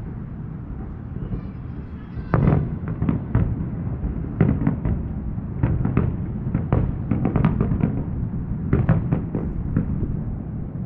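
Distant aerial fireworks: a barrage of shell bursts, sharp bangs coming in quick clusters from about two seconds in, over a steady low rumble.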